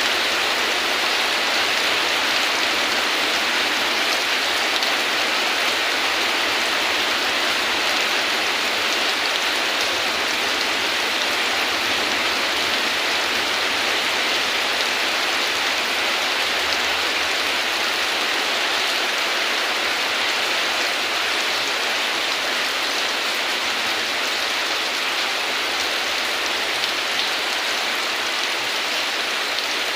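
Steady heavy rain falling, an even continuous hiss without pauses or thunder.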